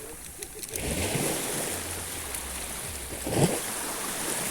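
Sea waves washing in: a swell of water noise about a second in, then a short, louder splash of a breaking wave at about three and a half seconds.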